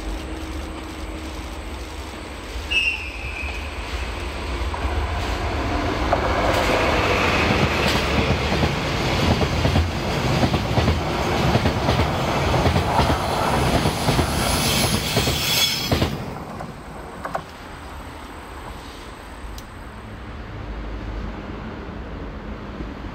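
A freight train hauled by a DD51 diesel-hydraulic locomotive passes. Its engine and wheels build up from about five seconds in, then the wagons clatter over rail joints with high-pitched wheel squeal. The sound cuts off suddenly about sixteen seconds in.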